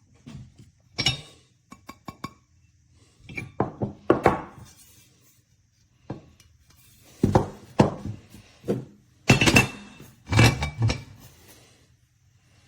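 Ceramic dog bowls and their stainless steel stand being handled: irregular clinks and knocks, some ringing briefly, in a dozen or so separate strokes with short pauses between them.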